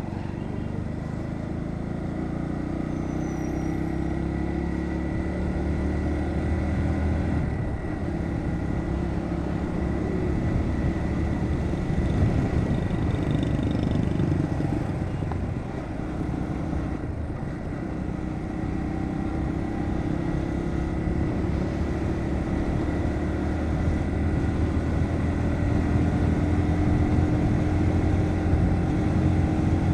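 Bajaj Pulsar NS125's single-cylinder engine running under way, its pitch rising and falling gently as the rider speeds up and eases off, with wind rushing over the helmet microphone.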